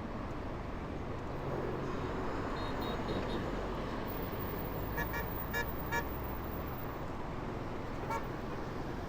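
Street traffic noise with short horn toots: four quick honks about five to six seconds in and one more near the end, over a steady rumble of engines and road noise.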